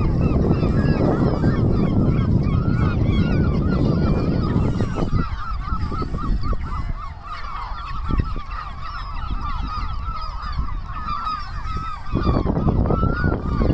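A dense chorus of many birds calling at once, a large flock of short honking calls overlapping continuously. Under it runs a low rumble that fades out about five seconds in and returns near the end.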